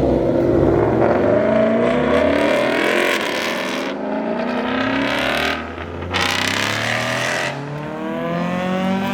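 A performance car's engine accelerating hard, its pitch climbing in several long pulls broken by gear changes, loud and close.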